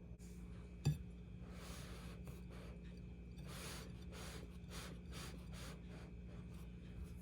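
A single sharp click about a second in, then a series of soft rustling, brushing handling sounds over a steady low hum.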